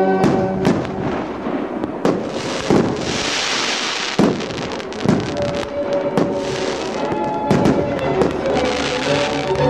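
Aerial fireworks bursting in quick succession, a sharp bang every second or so, with two stretches of dense crackling from glitter effects, one a few seconds in and one near the end. Music plays underneath.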